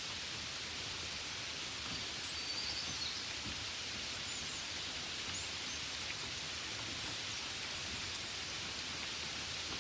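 Gentle rain falling steadily on a window, an even patter without a break. A few faint, brief high chirps show about two seconds in and again around five seconds in.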